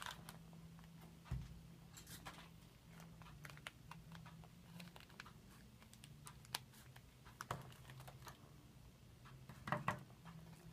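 Faint, scattered clicks and crinkles of small plastic toy packaging being handled, with a thump about a second in and a brief cluster of clicks near the end.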